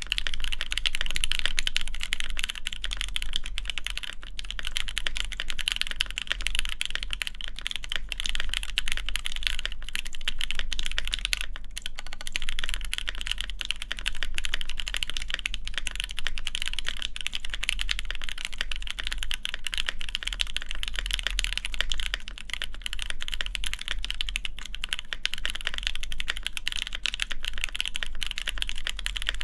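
Steady fast typing on a DriftMechanics Austin mechanical keyboard with lubed Alpaca linear switches, an FR4 plate and GMK ABS keycaps: a dense stream of key clacks, with a short pause about twelve seconds in.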